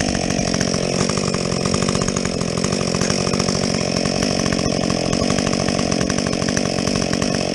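Husqvarna 562XP two-stroke chainsaw with a modified muffler running at high revs while cutting through a log, its pitch dipping slightly under load.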